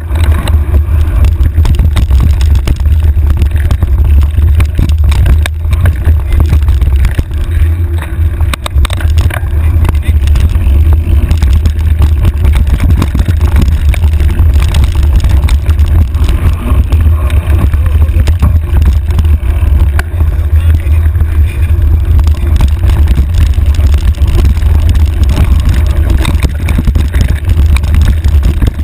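Wind buffeting a handlebar-mounted camera's microphone on a mountain bike riding down a dirt trail: a loud, steady low rumble with constant small rattles and clicks from the bike over rough ground.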